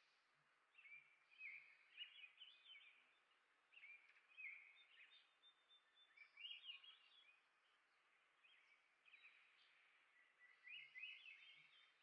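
A songbird singing faint, short warbled phrases of quick rising and falling notes, about five phrases a couple of seconds apart.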